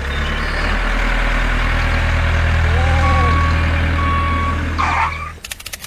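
A vehicle engine rumbling steadily and loudly, with two short beeps like a reversing alarm past the middle. The rumble cuts off near the end and rapid clicking follows.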